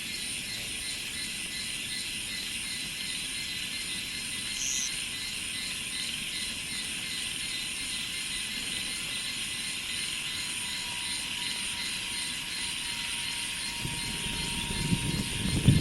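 Steady chorus of insects such as cicadas: an even high buzz with a faint pulsing shimmer above it. In the last second or two a low rumble builds up.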